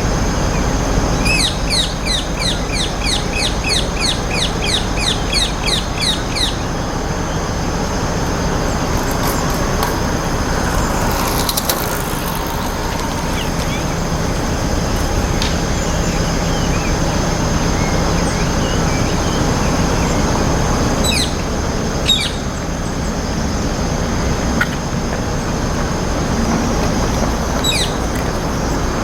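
Rose-ringed parakeet calling. A fast run of shrill, repeated falling notes lasts several seconds near the start, and a few single calls come later, over a steady low rumble.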